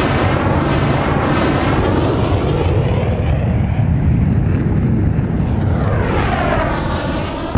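Military helicopter flying low and close, a loud steady engine and rotor noise with a sweeping whoosh near the end as it passes by.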